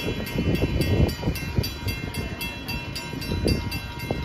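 Uneven low rumble of a train on the tracks, with faint steady high tones over it.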